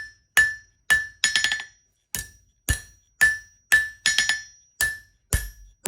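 Blacksmith's hammer striking hot iron on an anvil, about two blows a second, each ringing brightly as the stem is rounded up. Twice the hammer is followed by quick light rebound taps between blows.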